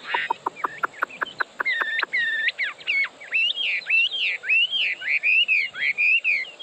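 Chinese hwamei singing: a quick run of sharp, evenly repeated notes, about seven a second, then loud, varied whistled phrases that slide up and down in pitch.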